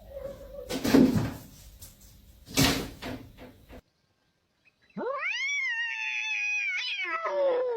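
A cat's long drawn-out meow lasting about three seconds, rising at the start, held steady, then falling away. It is preceded by two short, loud noisy bursts about a second and a half apart, in a separate clip.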